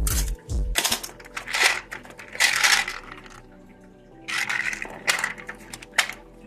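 Loose metal fishing tackle rattling and clattering as it is handled and sorted, in several short bursts.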